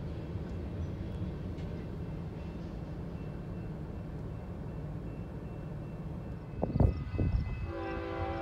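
Freight train tank cars rolling past with a steady low rumble. Near the end a couple of thumps, then a distant locomotive horn sounds a steady chord of several notes.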